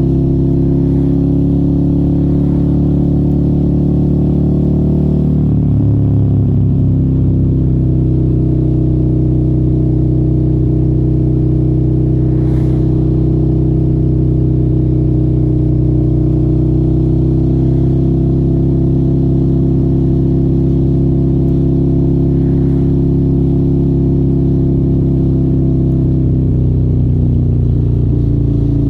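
Motorcycle with an aftermarket exhaust running on the road at a steady engine speed. Its note drops in pitch about five seconds in and again near the end.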